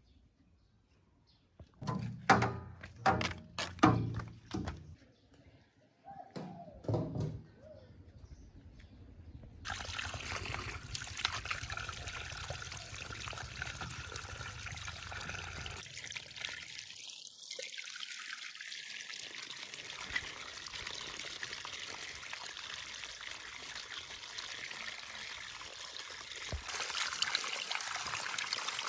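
A few knocks and clatters, then from about ten seconds in a steady sound of water running or pouring.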